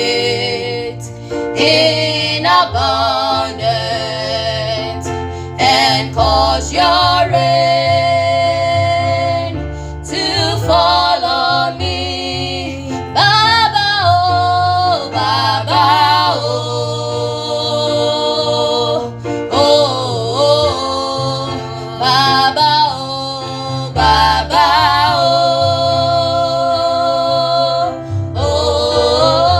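Praise-and-worship song: a sung lead vocal with long, bending held notes over instrumental backing with a steady bass line.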